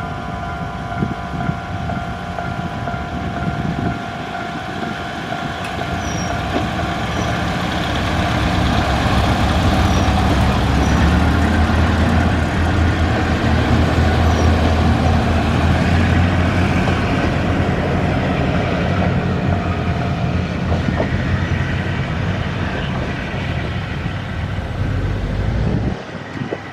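Diesel railcar creeping slowly over a level crossing, its engine rumbling louder as it passes and easing off toward the end.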